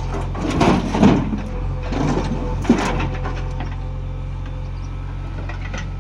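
Heavy diesel machinery's engine running steadily, with two louder bursts of rough noise in the first three seconds; the second ends in a sharp knock.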